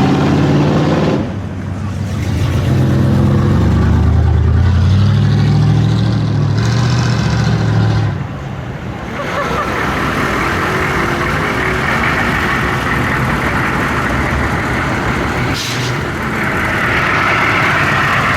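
V8 muscle car engines rumbling on a city street. There is a deep, strong rumble that rises and falls for about the first nine seconds as cars pass, then steadier traffic and engine noise.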